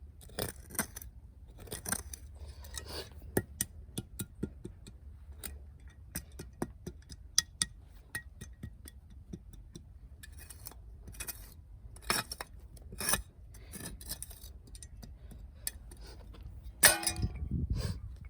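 Dry firewood giving off irregular sharp clicks and snaps, with a louder, longer burst near the end.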